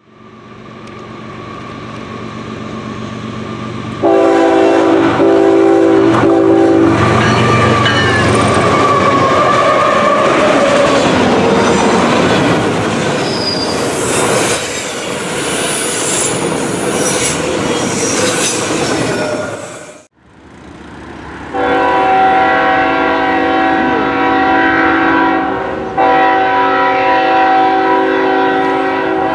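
Freight train passing: a diesel locomotive's air horn sounds a chord of several notes, then wheels clatter and squeal on the rails as the cars go by. After a sudden break, the horn sounds again in a long chord, dipping briefly once.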